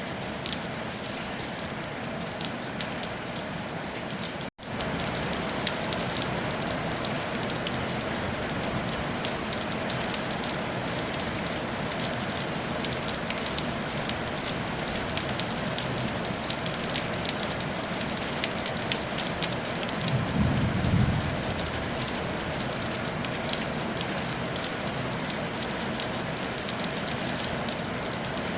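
Steady rain pattering on a tile roof, dense fine drop ticks over a constant hiss. The sound cuts out for a split second about four and a half seconds in, then resumes slightly louder, and a short low rumble rises and fades about two-thirds of the way through.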